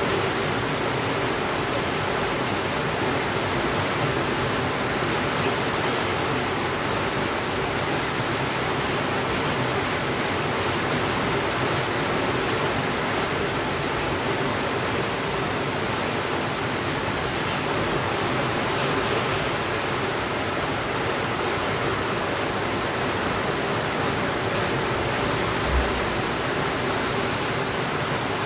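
Steady rain, an even hiss with no let-up. A single brief low thump comes near the end.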